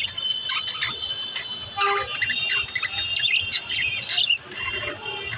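Pet budgerigars chirping and squawking in quick, overlapping calls.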